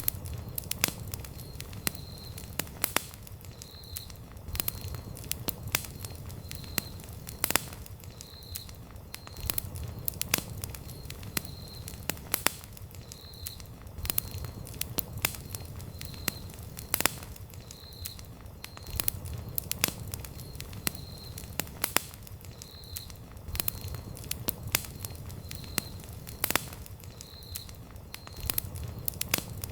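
Wood campfire burning, with irregular sharp crackles and pops over a low rumble of flame. A faint high chirp repeats about every second and a half throughout.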